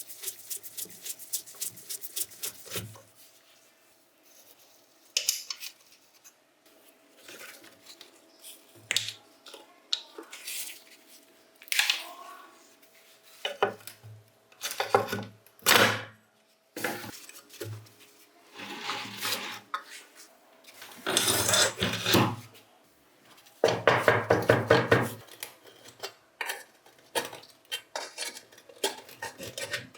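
Metal parts and hand tools clinking and clattering against each other and the workbench as a rusted bench grinder is taken apart. The sound comes in separate bursts with quiet gaps, some of them quick runs of clicks lasting a second or two.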